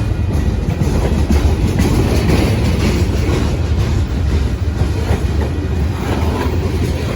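Train rolling past close by: a steady rumble of wheels on the rails with clattering over the rail joints.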